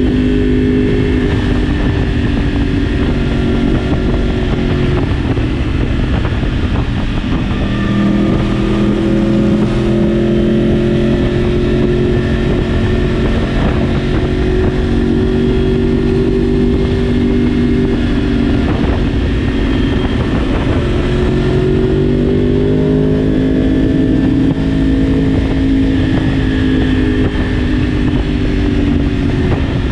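Yamaha R1 inline-four engine running on board, heard from the bike as it rides. Its pitch sags twice and climbs back again.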